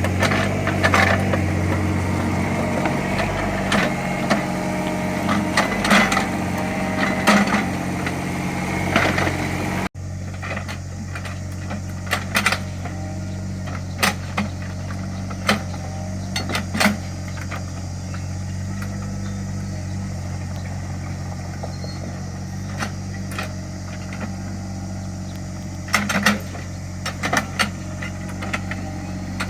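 Small Caterpillar excavator's diesel engine running steadily while digging, with repeated short knocks and clanks from the bucket and soil. About ten seconds in the sound cuts abruptly and goes on somewhat quieter.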